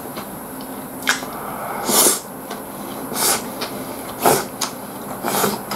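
Close-miked chewing: crisp, crackly crunches of food being bitten and chewed, about one every second.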